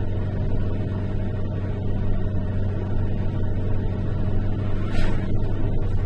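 A steady low mechanical drone with an even hum, with a single short click about five seconds in.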